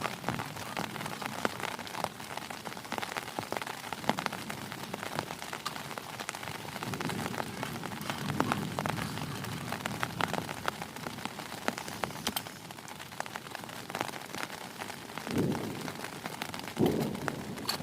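Heavy rain falling steadily, a dense patter of many individual drops, with two short low thumps near the end.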